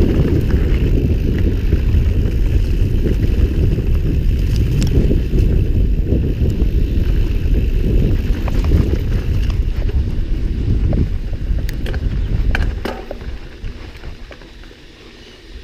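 Wind rushing over the microphone and mountain-bike tyres rolling on a dirt trail at speed on a downhill, with a few sharp clicks and rattles from the bike near the end. The noise drops sharply about thirteen seconds in as the bike slows.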